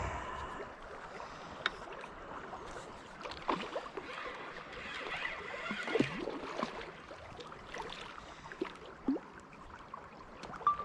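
A hooked striped bass splashing as it is landed and handled, with scattered sharp clicks and knocks, over moving river water. The splashing is strongest a few seconds in.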